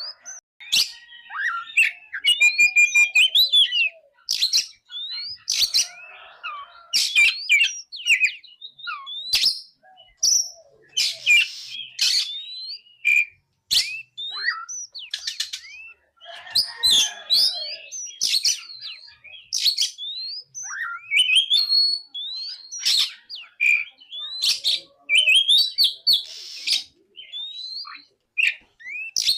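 Oriental magpie-robin (kacer) singing: a run of varied whistled phrases with rising and falling slides and sharp, scratchy notes, coming in bursts with short pauses between them.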